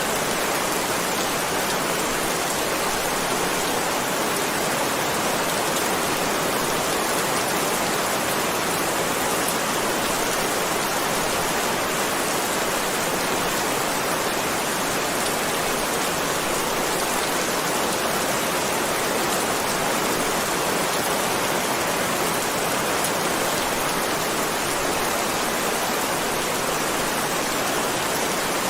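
Heavy rain falling in a steady, dense hiss, without a break or change.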